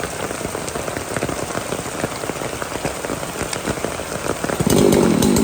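Heavy rain falling steadily, with many individual drops striking close by. Near the end a louder pitched sound cuts in over the rain.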